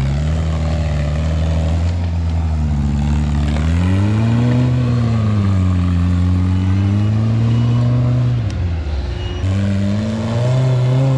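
Off-road rig's engine revving under load on a rock climb, its pitch rising and falling as the throttle is worked. It drops away briefly about nine seconds in, then revs up again.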